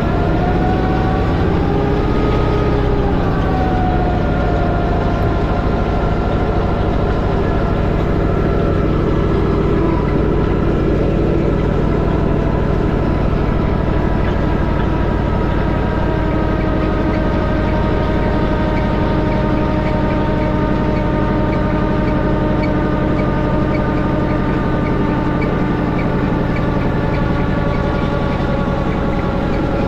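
Allis-Chalmers tractor engine running steadily while it drives a post hole digger's auger into gravelly ground. The engine pitch rises and dips over the first few seconds, then holds even.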